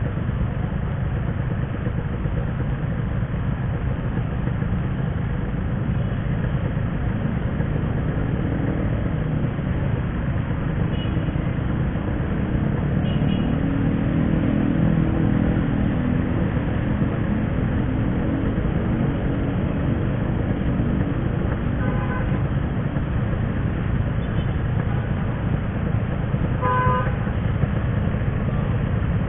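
Riding on a 135 cc two-stroke motorcycle: steady engine and wind rumble, with the engine pitch rising and falling once midway. A vehicle horn toots briefly a few times, most plainly twice near the end.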